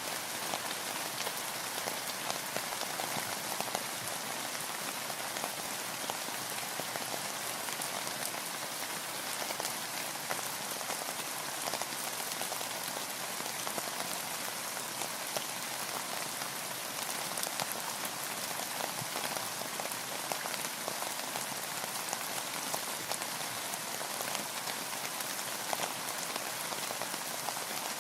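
Steady heavy rain pattering on a surface, dense fine drop impacts without pause.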